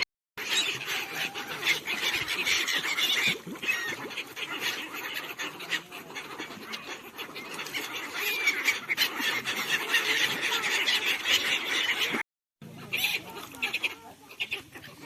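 A flock of birds calling all at once, a dense continuous chatter of many overlapping short calls. The sound cuts out briefly near the start and again about twelve seconds in.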